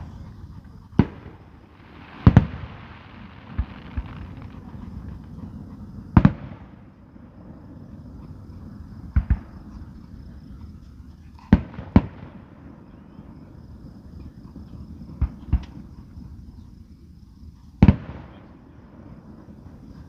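Aerial fireworks bursting overhead: irregular booms every few seconds, some single and some in quick pairs, several followed by a brief crackling hiss.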